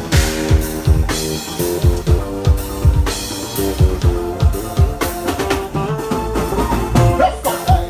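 Live soca band playing instrumentally: guitar over bass and drum kit with a steady, regular kick-drum beat.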